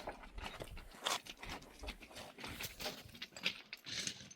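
Irregular crunching and knocking of steps on stony ground, made by donkeys and people walking.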